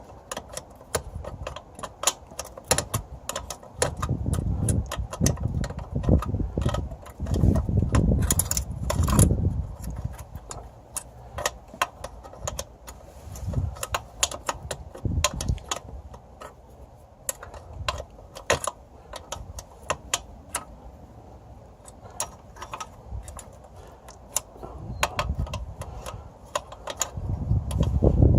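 Metal clinks and rattles from hand tools and small metal parts while a nut is undone and the exhaust-valve control cables are worked free of their bracket. Many short clicks throughout, with duller knocks and handling bumps between about four and ten seconds in.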